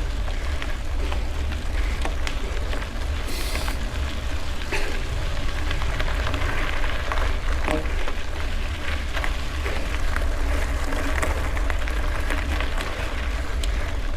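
Wind rumbling on the microphone of a camera carried on a bicycle, with tyres rolling over a gravel road and the bike rattling in many small clicks.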